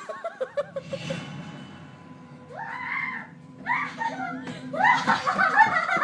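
A child laughing and squealing in high-pitched bursts, with a run of quick laughter at the start and louder shrieks near the end.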